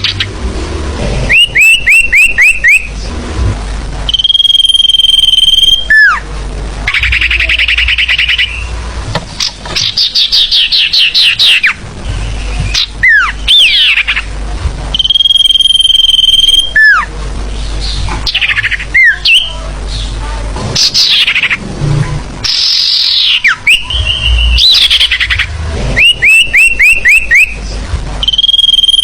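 Bird-lure recording of small forest birds calling noisily: quick chirps, rapid trills and downward-sweeping calls, broken by a long steady whistle that comes three times. The same sequence repeats, as a looped lure track does.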